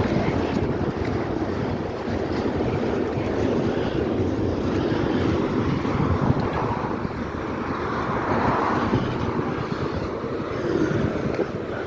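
Norfolk Southern freight train rolling past across a steel railroad bridge, a steady rumble of wheels on rails.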